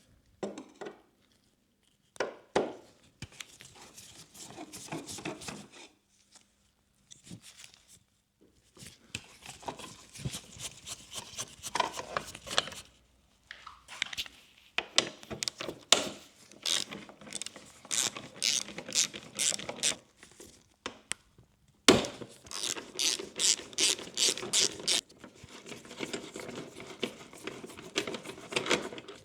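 Hands-on handling noises from the headlight-bulb swap: crinkling and scraping in fits and starts, with two runs of sharp, evenly spaced clicks.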